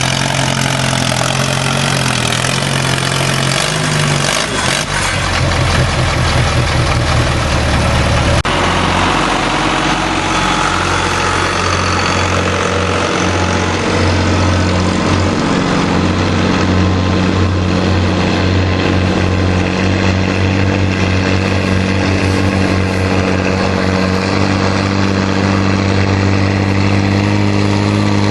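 Antique tractor engine running loudly, its note shifting about four and again about eight seconds in, then holding steady.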